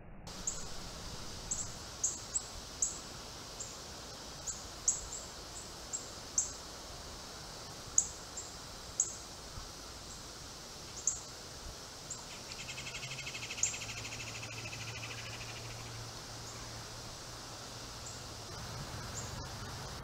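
Small bird giving sharp, high chip notes at irregular intervals over a steady high hiss of outdoor background. About two-thirds of the way through, a rapid buzzing trill runs for about four seconds.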